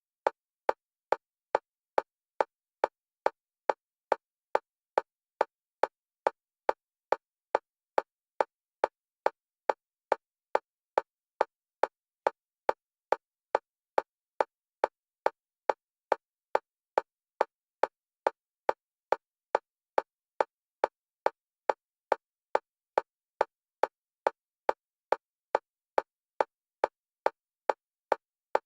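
Synthetic metronome click for EMDR bilateral stimulation: short, sharp clicks of a single pitch at an even rate of a little over two a second, alternating between the left and right stereo channels.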